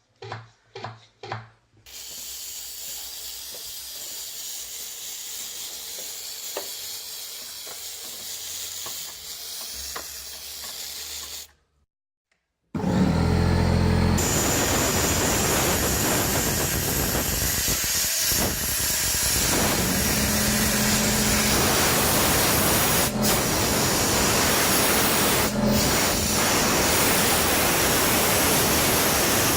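Steam cleaner jetting steam, a steady hiss: fairly quiet at first, then after a short break much louder for the second half.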